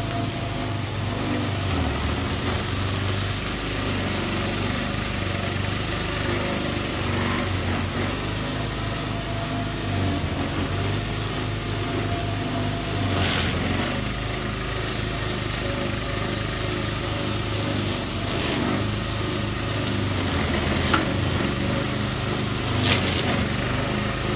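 Blue Bird self-propelled brush cutter's engine running steadily, with a hiss on top and a few short sharp knocks in the second half.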